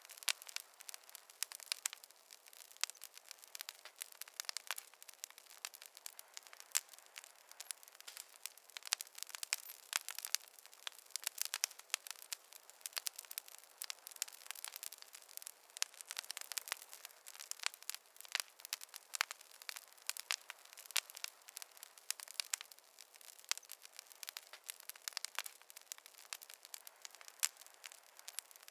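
Campfire crackling: burning wood giving off a steady stream of irregular sharp pops and snaps.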